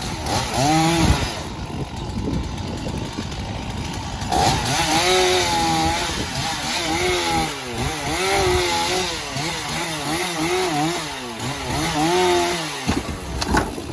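Chainsaw revving up and down repeatedly, with one short rev near the start and then a long stretch of rising and falling engine pitch from about four seconds in. It stops suddenly about a second before the end.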